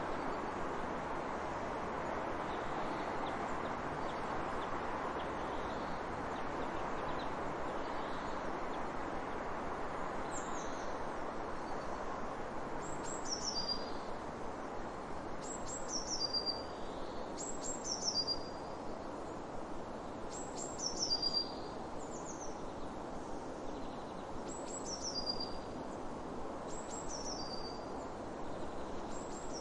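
A bird repeating short, high, falling calls in little groups of two or three, every two to three seconds, starting about a third of the way in, over a steady rushing background noise.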